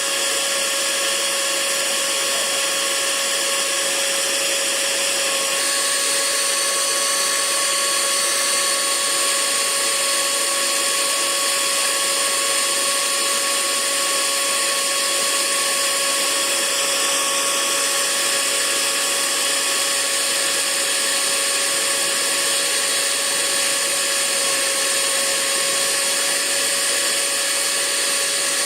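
Hair dryer running steadily: an even rush of blown air over a constant motor whine, with a thin high whine joining about five and a half seconds in.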